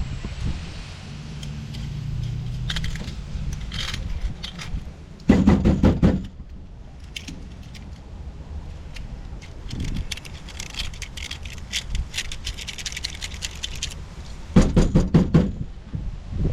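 Metal plumbing fittings being handled and worked by hand: scattered clinks and scraping, with two louder bursts of rattling, about five seconds in and again near the end.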